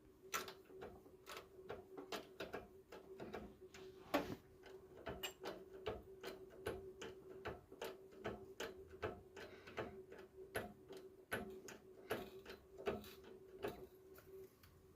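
A workshop machine running with a steady hum, under a run of sharp, irregular ticks and clicks, about two to three a second.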